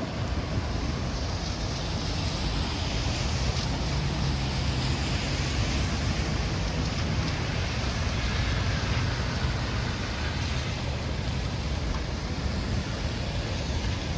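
Steady storm wind buffeting the microphone over a low rumble of street traffic.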